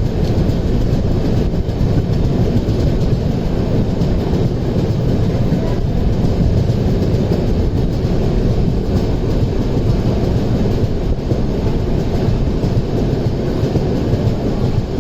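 Passenger express train running on the line: a loud, steady rumble of wheels on rail, with no breaks or distinct knocks.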